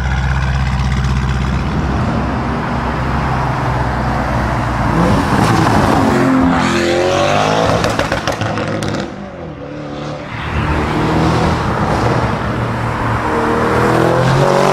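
Lamborghini Urus's twin-turbo V8 through a Fi valvetronic exhaust with the valves open. It runs steady and low at first, then accelerates past with the pitch rising and falling about five seconds in. It fades briefly around nine seconds, then comes back up loud near the end.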